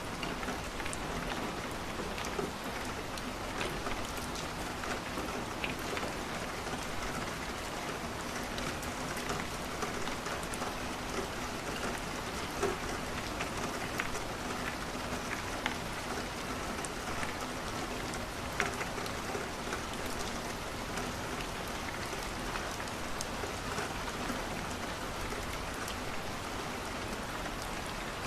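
Steady rain on a window, mixed with the crackle of a wood fire in a fireplace, with scattered sharp pops.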